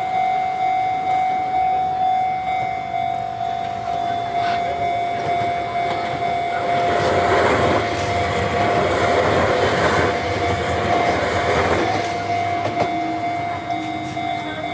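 Level-crossing warning bell dinging in a steady, rapid rhythm as a train on the Enoshima Electric Railway (Enoden) passes through the crossing. The train's rumble and wheel noise swell in the middle and fade again while the bell keeps ringing.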